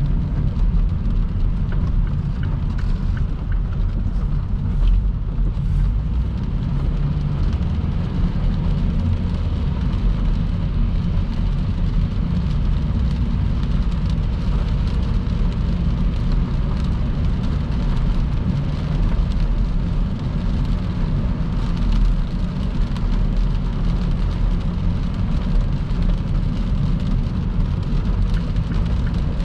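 Steady low rumble of a car driving at highway speed in heavy rain, with an even hiss of rain and tyre spray over it.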